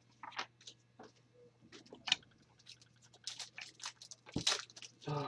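Trading cards being handled: a quick, irregular run of short dry clicks and rustles as cards are slid and flipped through a pack, growing busier after about three seconds, over a faint steady hum.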